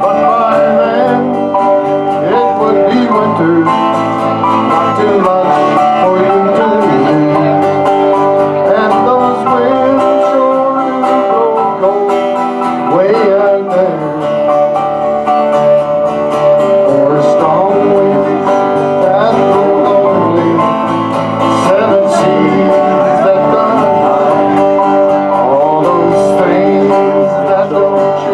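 A small acoustic folk group playing a song live, led by guitar and other plucked strings, with no pauses.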